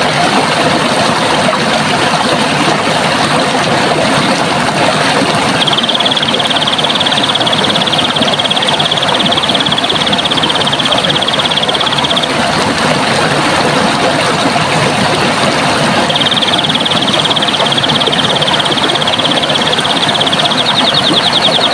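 Running water rushing steadily. Over it, a high, rapid trill at one steady pitch comes twice, each lasting about six seconds, starting about six seconds in and again about sixteen seconds in.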